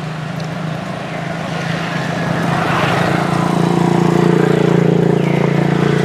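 A motor engine running with a steady hum, growing louder from about two seconds in.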